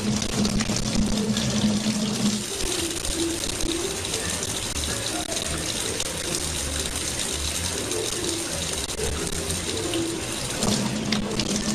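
Steady rushing of running water, like a tap left on.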